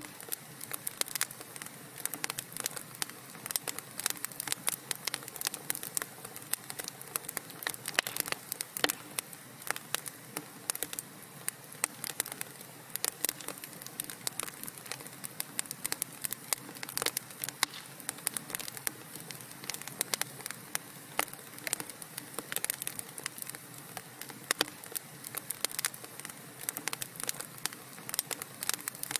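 Wood fire burning in a fireplace: a steady hiss with dense, irregular crackles and pops from the burning logs.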